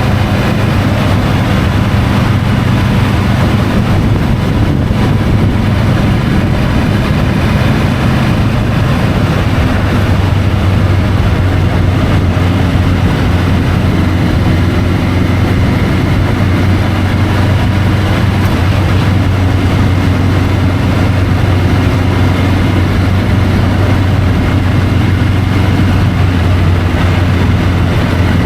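Triumph Tiger 850 Sport's three-cylinder engine running under way, with road and wind noise on the bike-mounted camera. The engine note shifts a couple of times as the revs change.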